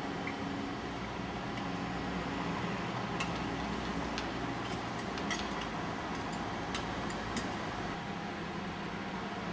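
Steady low mechanical hum and hiss from a standing train, typical of its ventilation equipment running, with a few faint clicks in the middle.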